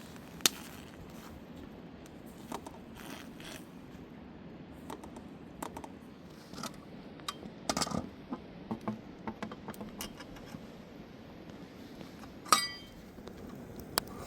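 Scattered light clicks and knocks of hard objects being handled, with a cluster in the middle and one sharp clink near the end that rings briefly.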